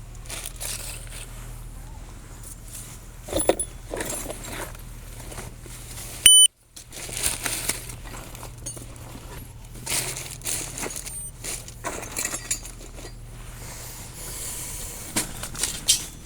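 Loose items being handled and moved about, with scattered clicks, rustles and clinks. About six seconds in, a short, loud high-pitched electronic beep sounds and the audio cuts out for a fraction of a second.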